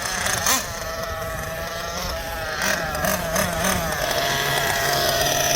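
Small nitro engines of radio-controlled monster trucks running with a high whine, the pitch wavering up and down as the throttle is worked for a few seconds before steadying.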